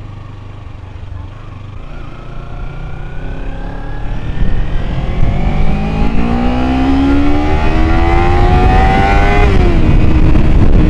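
Kawasaki Ninja 300's parallel-twin engine pulling up through the revs under acceleration, its pitch climbing steadily for several seconds, with wind rush building as speed rises. Near the end the revs drop abruptly and settle to a steady note.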